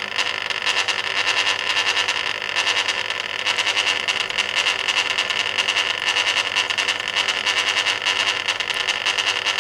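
Water and wet washload sloshing in the stainless-steel drum of a 1980 Hoover Keymatic A3112 washing machine during its third rinse. It is a steady splashing wash noise, heard from inside the drum, with no motor hum under it.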